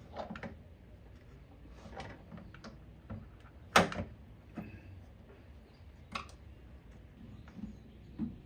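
Scattered knocks and clicks of wood and metal door hardware being handled and fitted, with one loud sharp knock a little under four seconds in.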